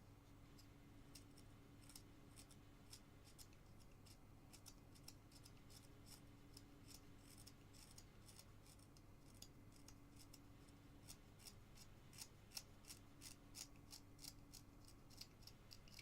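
Faint, irregular snicks of a carving knife taking small cuts in basswood, coming thicker in the last few seconds, over a low steady hum.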